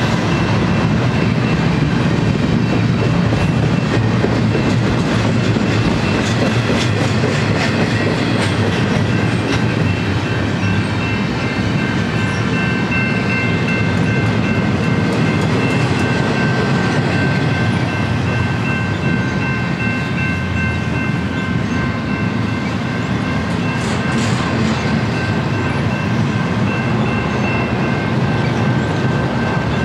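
Double-stack container train of loaded well cars rolling past: a steady rumble of steel wheels on rail with clickety-clack from the wheels. Thin, steady high-pitched tones ring above the rumble.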